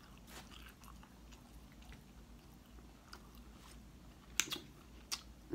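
Faint chewing close to the microphone, with a few sharp clicks near the end.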